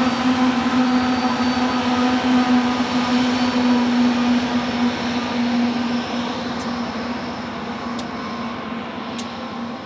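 Union Pacific freight train's diesel locomotives passing: a steady humming tone over a broad rumble that fades about six seconds in as the train moves off, with a few sharp clicks near the end.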